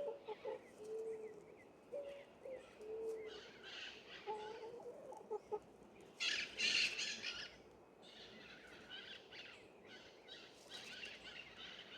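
Jacus (guans) calling. A run of short, low, whistled notes repeats through the first five seconds, with higher chirps throughout and a louder burst of calls about six seconds in.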